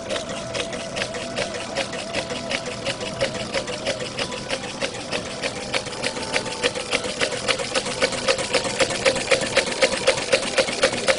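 Small homemade Stirling engine running, with an even, rapid clicking from its moving parts several times a second that grows louder toward the end.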